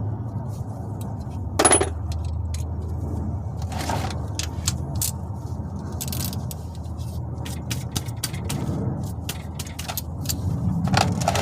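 Small metal clinks and scrapes of a wrench on the 15 mm oil drain plug, loosening it, with the loudest clink about two seconds in. A steady low rushing noise runs underneath.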